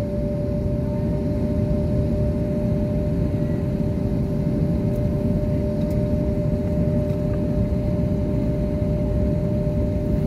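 Jet airliner cabin noise with the engines at idle on the ground before take-off: a steady low rumble with two constant hum tones over it.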